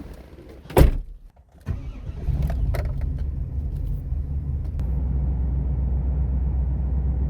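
A vehicle door shuts with a single loud thump about a second in; a moment later the engine starts and settles into a steady low idle.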